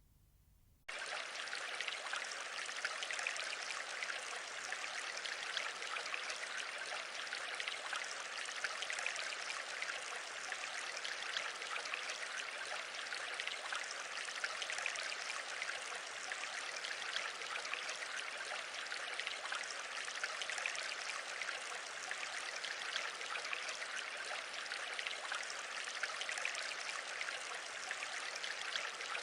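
Steady, even rushing noise with no pitch, starting about a second in after a brief silence.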